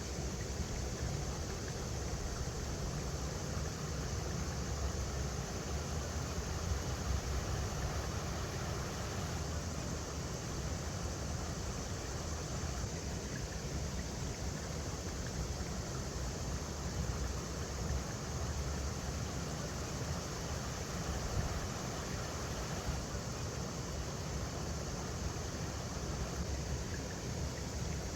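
River water rushing steadily over rocks: an even, unbroken rush with a strong low rumble beneath it.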